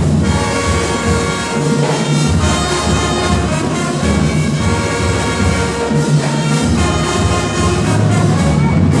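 A school band playing loudly, with brass instruments leading over a low bass line. The music cuts off right at the end.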